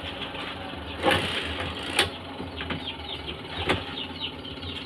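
A steady low mechanical hum from a running motor, with a few sharp knocks, the loudest about a second and two seconds in, and brief high chirps in the second half.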